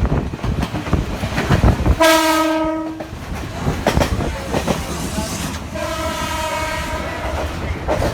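Passenger train running with rumbling wheel clatter on the rails while its horn sounds twice: a loud blast of about a second two seconds in, then a longer, fainter one about six seconds in.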